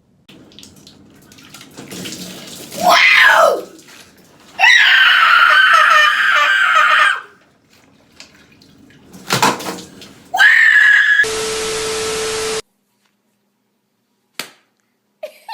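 A young person screaming loudly several times: a short wavering scream, a long high one a couple of seconds later and another near the end. It is followed by a steady hissing buzz that lasts about a second and cuts off suddenly.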